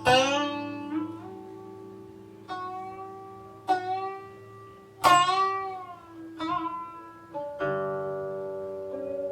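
Guqin (Chinese seven-string zither) played solo: sparse single plucked notes, each left to ring and fade, several bending or sliding in pitch after the pluck. The loudest notes come at the start and about five seconds in.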